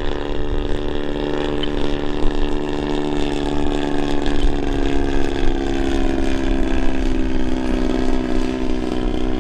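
Desert Aircraft DA-100 twin-cylinder two-stroke gasoline engine of a large-scale RC Super Decathlon in flight, running as a steady drone at a nearly constant pitch.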